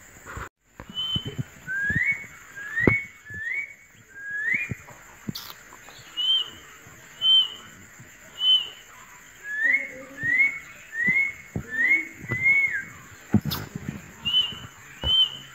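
A bird calling over and over: short rising chirps in runs of four or five, with thinner, higher peeps between the runs. A faint steady high whine sits behind them, and there are a few soft knocks.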